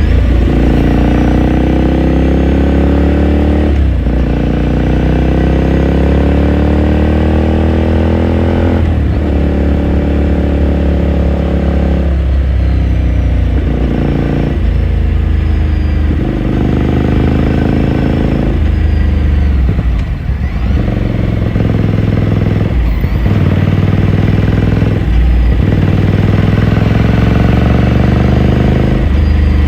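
2018 Ducati Scrambler Sixty2's 399 cc air-cooled L-twin engine and exhaust under way: the engine note climbs steadily under throttle, breaks off sharply at each gear change or throttle lift, and climbs again, about a dozen times. The first two pulls are long, and the later ones are shorter and closer together.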